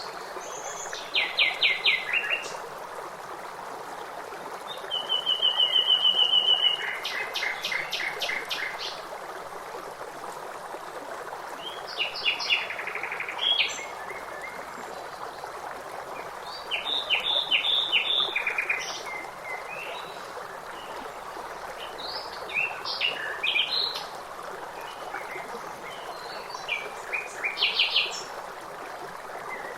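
Songbirds singing and calling in rapid trills and chirps, in short phrases every few seconds, over a steady rush of running water.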